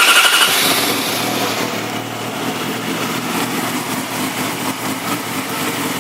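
2007 Yamaha YZF-R6 inline-four engine, fitted with an aftermarket GYTR exhaust, just after starting: the revs flare for about a second and then settle into a steady idle.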